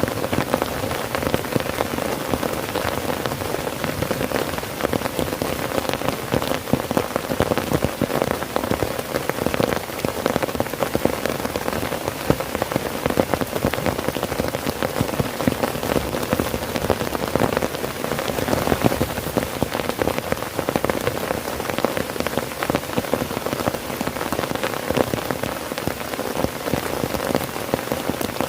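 Heavy rain falling steadily on a tent, a dense, unbroken patter of drops.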